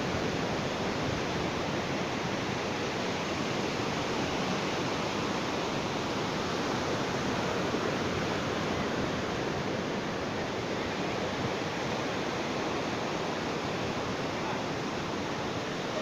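Ocean surf washing on a beach, a steady, even rush of water with no distinct wave breaks standing out.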